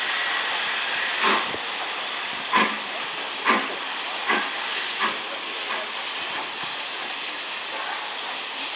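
BR Standard Class 9F 2-10-0 steam locomotive moving off slowly: sharp exhaust chuffs about a second apart, the first few loudest, then weaker and coming quicker, over a steady hiss of steam.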